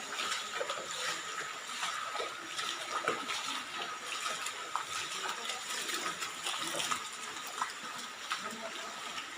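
Steady rush of flowing river water, with a faint steady high tone behind it.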